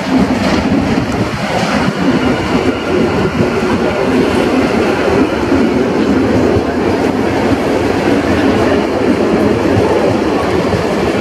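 Passenger train pulling into the platform: an EP07 electric locomotive passes close by, then its coaches roll past with a steady running noise of wheels on rails. The sound jumps up sharply at the start as the locomotive draws level, then holds steady.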